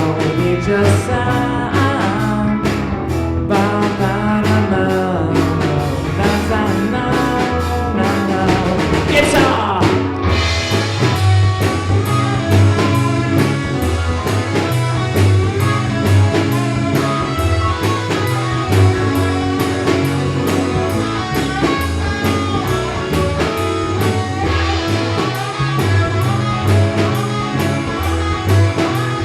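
A live rock band playing a song with a singer, electric guitar and drum kit.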